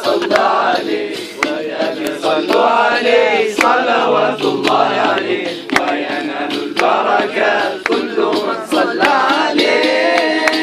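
A group of men singing an Arabic nashid in chorus, a call-and-response refrain in praise of the Prophet, with sharp percussive hits scattered through the singing.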